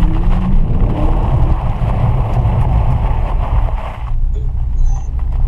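Dodge Challenger Scat Pack's 6.4-litre HEMI V8 rising in pitch as the car accelerates over a wet road, heard from inside the cabin, with a steady hiss of tyre spray that stops abruptly about four seconds in.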